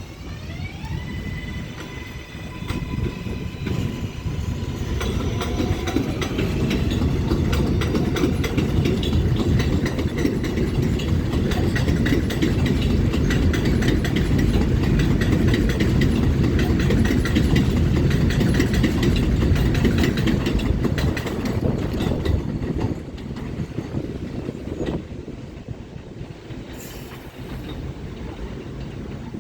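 R142-family New York subway train passing: the traction motors' whine rises in pitch over the first few seconds as it gains speed, then a loud rumble of wheels with steady clicking over rail joints, fading away after about twenty seconds.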